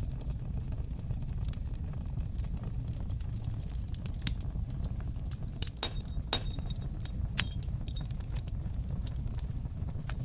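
Wood fire in a stone fireplace crackling: a steady low rumble of the flames under many small sharp pops, with a few louder snaps past halfway, the loudest about seven seconds in.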